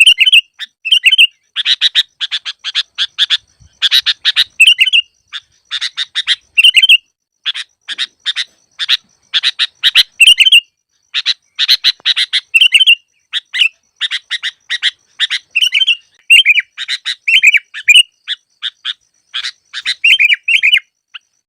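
Sooty-headed bulbul (kutilang) calls in rapid repeated bursts: clusters of sharp chattering notes mixed with short whistled notes, with dead silence between bursts. It is a lure recording for trapping bulbuls.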